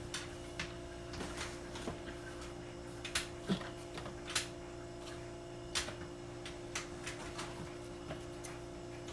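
Scattered light knocks and clicks of sweet potatoes being handled and set down for weighing, over a steady low hum.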